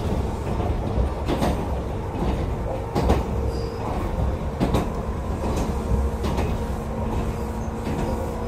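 Echizen Railway electric train running along the line, heard from inside the car: a steady low rumble of wheels on rail with a faint steady hum, broken by irregular knocks as the wheels pass over rail joints.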